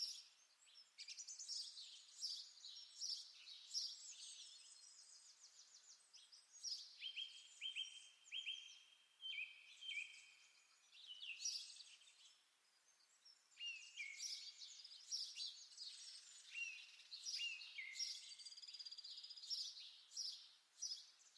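Faint birdsong: several small songbirds chirping and twittering, with repeated short clear notes that slide down in pitch.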